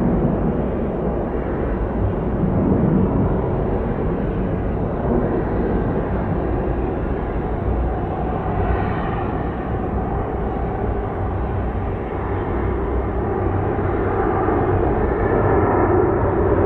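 Jet airliner engines running at high power, a steady loud rumble, with a faint whine rising in pitch near the end.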